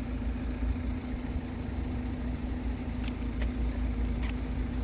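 Approaching train heard before it comes into view: a steady low hum over a low rumble, with a few faint clicks.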